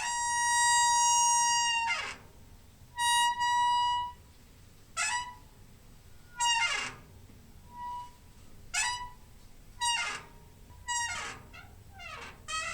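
A squeaking door hinge: a long squeal of about two seconds, another a second later, then a run of shorter squeals roughly every second, several sliding down in pitch as the door swings back and forth.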